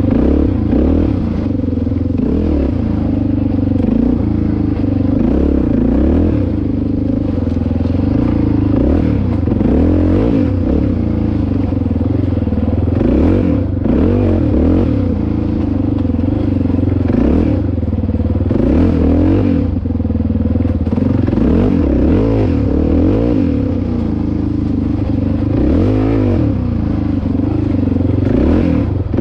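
Dirt bike engine running under way, revving up and easing off again and again, with rattling from the bike.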